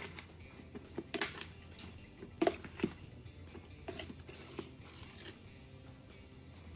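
Red plastic measuring cup scooping and stirring through self-rising flour in a plastic canister: soft, scattered scrapes and rustles with a few light knocks of the cup against the container, the loudest about one and two and a half seconds in.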